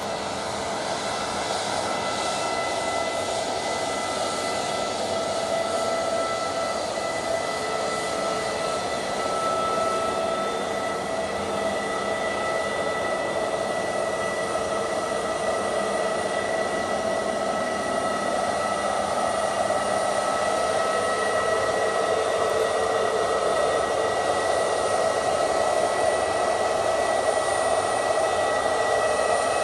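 Easyjet Airbus A320neo's jet engines running at taxi thrust: a steady whine with several held tones over a rushing hiss, growing slightly louder toward the end.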